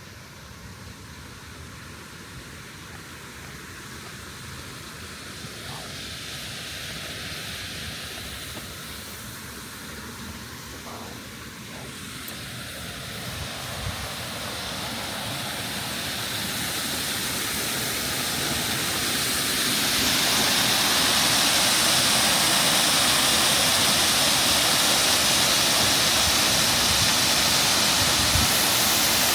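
Waterfall rushing: a steady wash of falling water that grows gradually louder and steps up about twenty seconds in.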